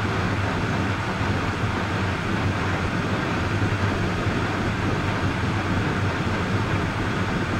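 Steady running noise of a moving vehicle, an even rush with a constant low hum underneath.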